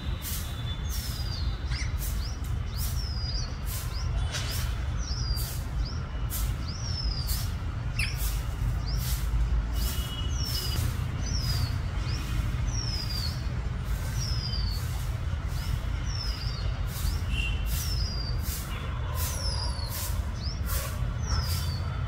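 A steady low rumble throughout, with a bird repeating a short, high, falling chirp about once a second.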